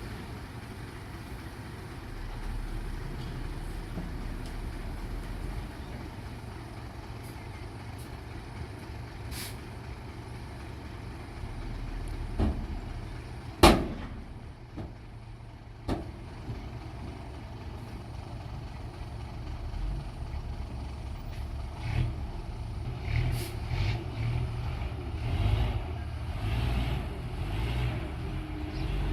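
Small construction machine's diesel engine running steadily, then working in uneven surges in the last third. A sharp bang about halfway through is the loudest sound, with smaller knocks just before and after it.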